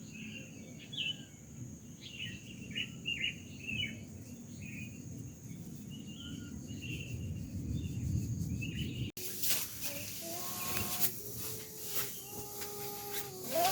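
Birds chirping over a steady high insect drone, with a low outdoor rumble beneath. About nine seconds in, the sound cuts abruptly to a louder, noisier passage with a few held steady tones.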